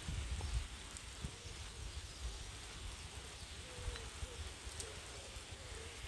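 Steady rain falling: a soft, even hiss with scattered drip ticks. A faint wavering tone comes in about halfway through.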